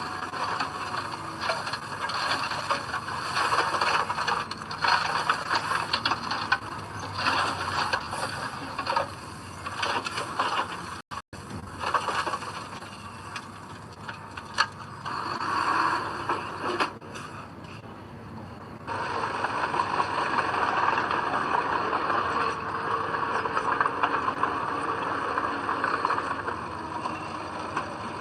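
Heavy earthmoving machinery working soil: machinery running steadily with scraping and clattering. The sound drops out briefly about a third of the way in and changes abruptly partway through.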